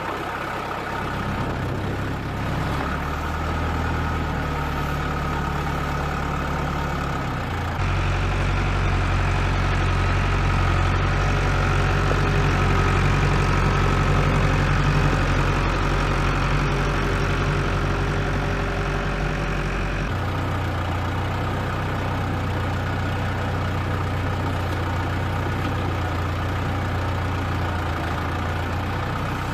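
Heavy diesel machine engine running steadily. About a quarter of the way in it works harder, louder and heavier, then eases back about two-thirds of the way through.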